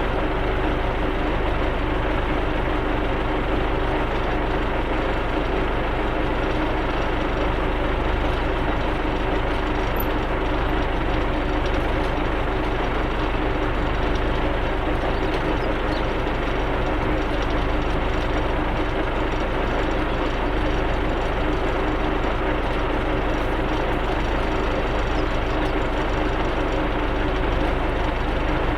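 Tractor engine running steadily while pulling field rollers, a constant low rumble with a steady hum.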